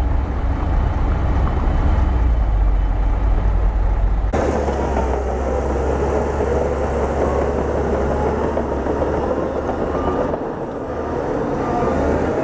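Bulldozer's diesel engine running steadily with a deep rumble. The sound changes abruptly about four seconds in, and a wavering whine rides over the engine, dipping briefly near the end.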